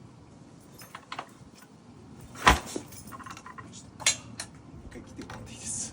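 Metal clinks and knocks, a sharp knock about two and a half seconds in and another about four seconds in; no engine running.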